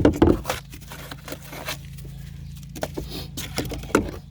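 Dry pour-in flotation foam in an aluminum boat hull scraping and crunching as it is worked loose and pulled out, a run of short irregular crackles and scrapes, with the loudest just at the start and another near the end.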